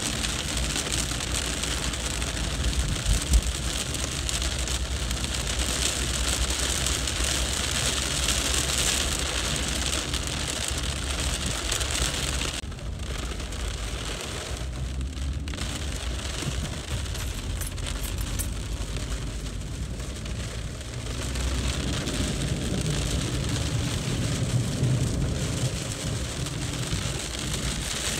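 Heavy rain falling on a street, a steady wide hiss; about halfway through the bright top of the hiss drops away and it turns duller, with a lower rumble building later on.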